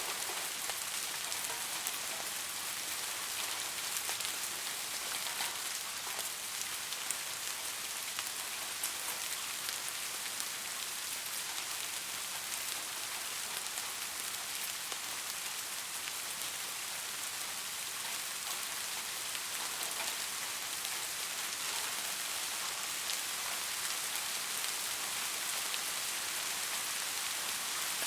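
Steady rain falling, a dense even hiss with fine individual drop ticks.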